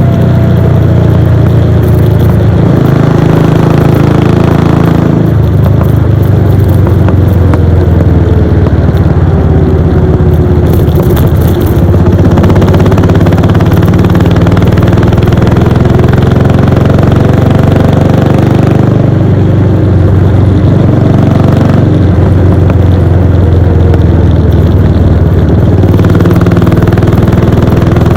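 Royal Enfield Bullet 500's single-cylinder four-stroke engine running under way, its exhaust note steady and loud. The engine note rises and falls several times as the revs change.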